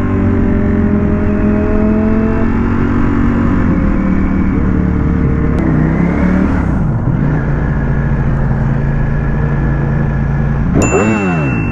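Ducati Panigale V4S's V4 engine running under the rider at a mostly steady pitch in traffic. Near the end the engine pitch drops and rises again sharply, as with a throttle blip.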